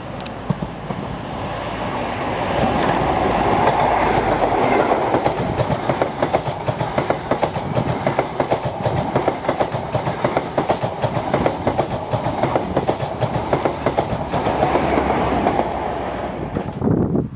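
A train passing on the line, its wheels clattering in a rapid run of clicks over the rail joints. The sound builds over the first few seconds and drops away near the end.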